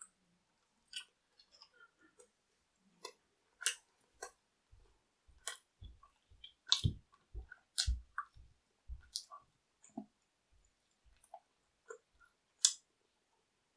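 A person chewing thin-crust pizza: crisp crunches of crust and wet mouth clicks, with a stretch of soft low thuds in the middle as the jaw works.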